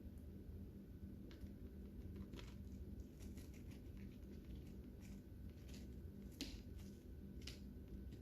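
Lovebirds eating: scattered small crisp clicks and crunches of beaks working on their food, a few a second at most, with the sharpest after about six seconds. A faint steady hum runs underneath.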